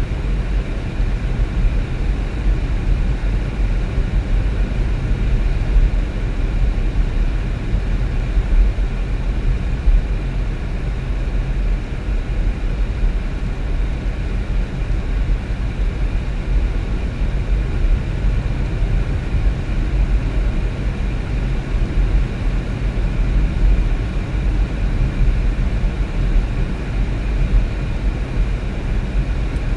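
Steady low rumble of a vehicle being driven: engine and road noise running evenly, without changes.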